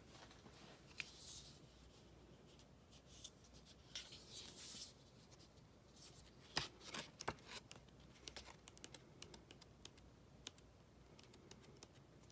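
Faint handling of Blu-ray cases and packaging: scattered light plastic clicks and taps with a few brief rustles.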